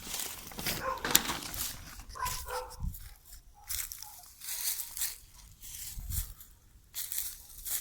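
A dog barking in a couple of short calls in the first few seconds, fainter afterwards, amid sharp rustling and crackling noises.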